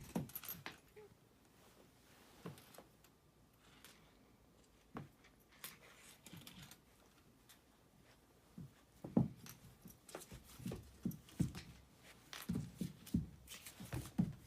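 A small puppy scuffling and mouthing: irregular soft knocks and clicks, sparse at first and busier in the second half.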